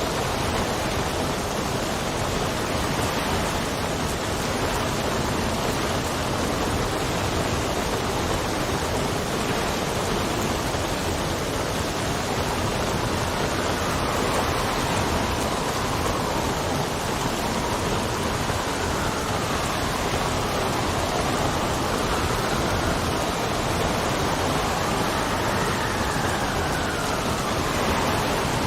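Steady heavy rain with wind. From about halfway through, a faint whistling wind rises and falls in pitch over the rain.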